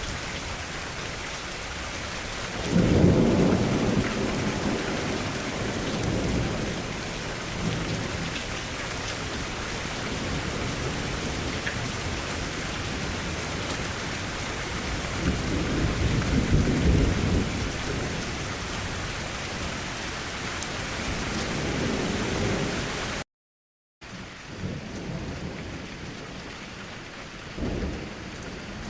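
Steady heavy rain with rolls of thunder; the loudest rumble comes about three seconds in, more follow around the middle and just before the end. The sound cuts out completely for under a second late on, then the rain resumes, somewhat quieter.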